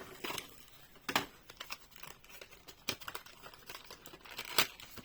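Plastic blister packaging of a diecast toy car being worked open: intermittent crinkling and tearing, with a few sharp crackles, the loudest about a second in and near the end.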